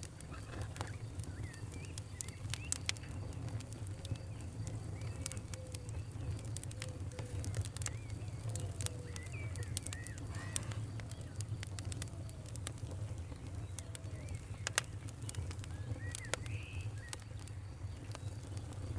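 Wood fire crackling: sharp, irregular pops and snaps over a steady low rumble, with faint chirping in the background.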